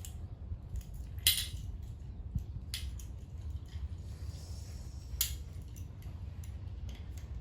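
Sharp knocks and clinks, three louder ones among fainter ticks, over a steady low rumble.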